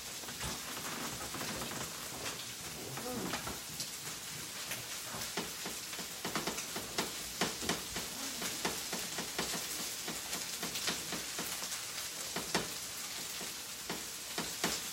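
Hash browns sizzling in hot oil in a skillet, with a metal spatula scraping and tapping against the pan many times from about five seconds in as they are turned.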